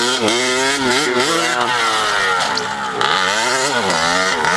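Small single-cylinder pit bike engine being ridden hard, revving up and dropping back over and over, several throttle rises of under a second each.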